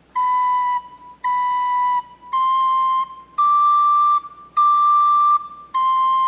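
Soprano recorder playing a short phrase of separately tongued notes, stepping up and back down: B, C, D, D, C.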